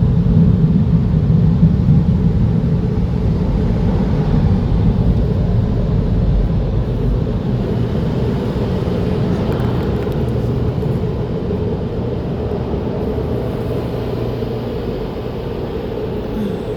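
Automatic car-wash air dryers blowing on the car, heard from inside the cabin: a loud, steady rush of air with a low hum, growing gradually quieter.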